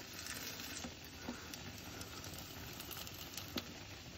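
Egg-and-potato tortilla frying gently in olive oil in a frying pan: a soft, steady sizzle, with a couple of faint ticks.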